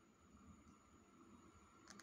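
Near silence, with the faint hum of a distant electric train approaching, slowly growing louder, and a small click near the end.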